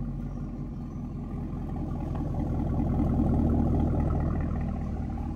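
2020 Camaro ZL1's supercharged 6.2-litre V8 running through a freshly fitted AWE track-edition cat-back exhaust, a steady deep exhaust note. It grows louder about halfway through, then eases back.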